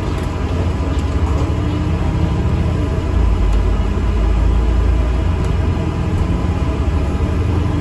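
Steady low rumble of an ADL Enviro400 MMC double-decker bus under way, engine and road noise heard from inside, getting a little louder about three seconds in.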